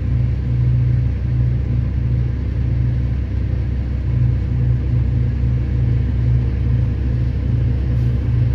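Diesel engine of a Hitachi 2500 mining excavator running under work, a steady deep rumble that rises and dips slightly.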